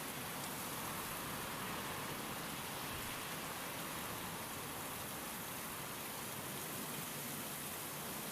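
Steady rain falling in an even hiss, with wind that swells a little in the first few seconds.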